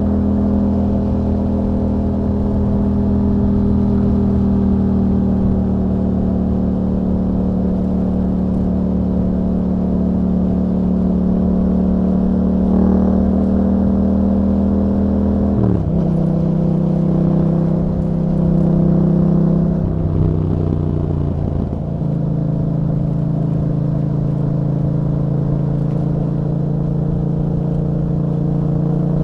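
2021 Yamaha MT-07's parallel-twin engine running steadily through an Akrapovic exhaust fitted with a dB killer. A little past halfway its pitch drops suddenly, as at an upshift, and it sags again about two-thirds through before holding a steady lower note.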